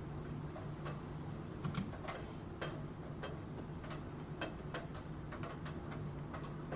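Computer keyboard typing: keys clicking irregularly, a few strokes a second, over a steady background of rain.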